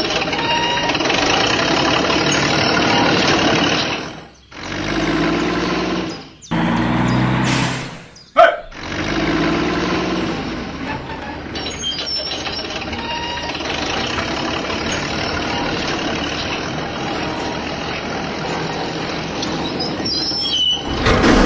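Heavy vehicle engines running, laid down as several spliced segments that cut off and change abruptly, with a low engine drone standing out briefly a quarter of the way in.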